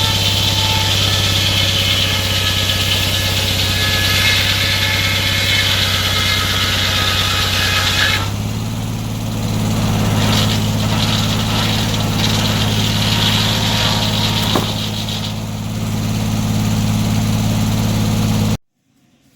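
Sawmill engine running at a steady speed, with a higher noise over it that drops back about eight seconds in and picks up again; the sound cuts off suddenly near the end.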